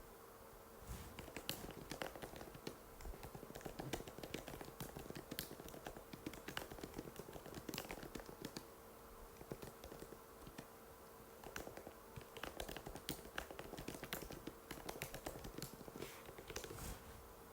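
Typing on an Apple MacBook butterfly keyboard: a quick, uneven stream of light key clicks, with a short pause a little past halfway, over a faint steady hum.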